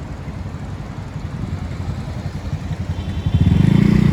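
Street traffic heard from a bicycle: a steady low rumble, then a motor vehicle's engine, likely a motorcycle, comes in loud and close about three seconds in.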